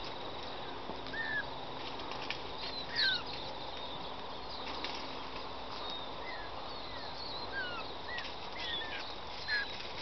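Birds chirping: scattered short chirps and whistles, several sliding down in pitch, the loudest about three seconds in, over a steady outdoor hiss.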